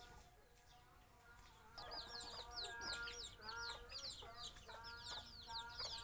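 Chickens clucking in short repeated calls, with a thick run of quick high chirps over them, both starting about two seconds in.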